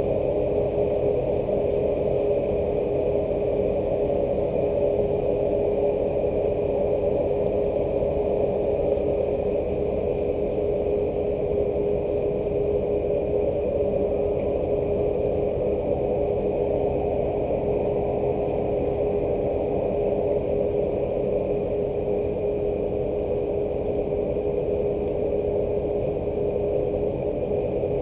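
A machine running steadily: an even, unchanging hum with one constant tone over a bed of noise.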